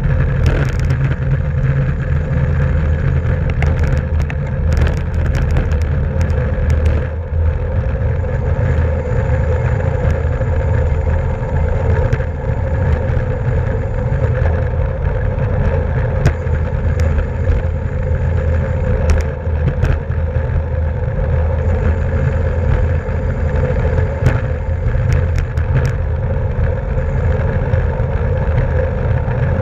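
Steady rush of wind and road noise from a camera moving with a bicycle race, with scattered sharp clicks.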